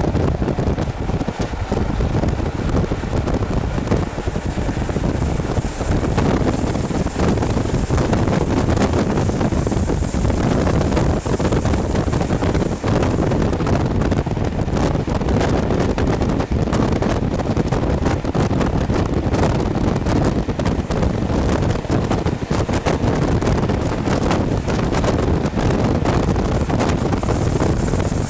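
Rushing wind buffeting a microphone held out of the window of a moving Mark 3 passenger coach, with the train running steadily along the track underneath.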